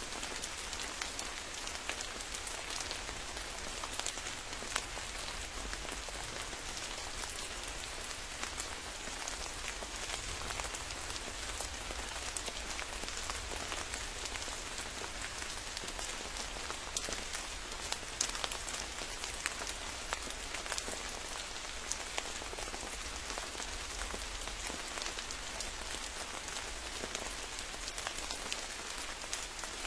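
Steady rain falling and pattering on surfaces, with many individual drop impacts scattered through an even hiss and a faint low rumble underneath.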